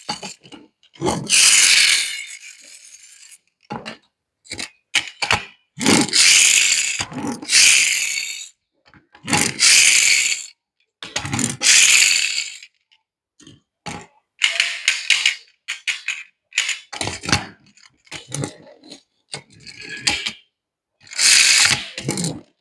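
Die-cast metal toy cars being handled: repeated short bursts of rattling and whirring with sharp clicks, broken by silent gaps.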